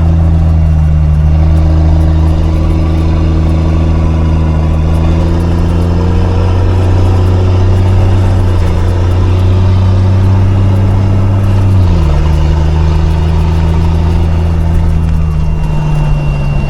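A 5-ton military truck's engine running under load on a climb, its pitch slowly rising for about twelve seconds, then dropping sharply as the revs fall, and holding steady after.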